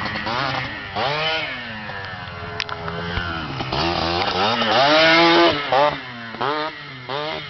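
Small motorcycle engine being revved over and over, its pitch climbing and dropping with each twist of the throttle, the longest and loudest rev about five seconds in, followed by several short quick blips.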